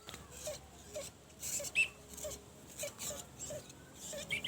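Pigeons calling: short low cooing notes repeating about twice a second, with a few higher chirps and rustling among them.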